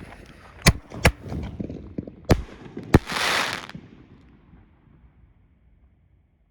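Aerial firework shells going off: four sharp bangs within about two and a half seconds, then a short hissing burst that fades away.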